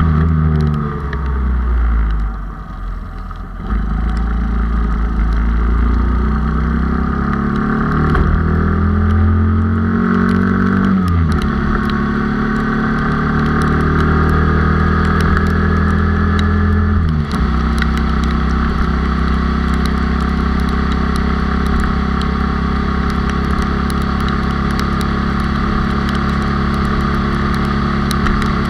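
Honda Cub's single-cylinder four-stroke engine, bored to 97 cc with a four-speed gearbox and tall gearing, running as the bike is ridden. The revs fall and dip quieter near the start, then climb, and the pitch drops suddenly twice, about a third of the way in and just past halfway, as it shifts up. After that it runs at a steady cruise.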